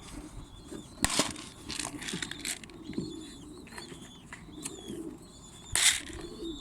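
Faint, repeated short chirps of bird chicks, with two sharp clicks, one about a second in and a louder one near the end.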